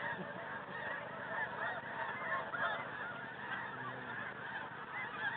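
A flock of snow geese calling: many short, high honks overlapping in a steady chorus.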